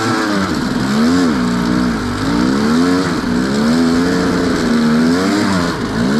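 Enduro motorcycle engine revved again and again, its pitch rising and falling several times, as the bike labours to get up a hill climb.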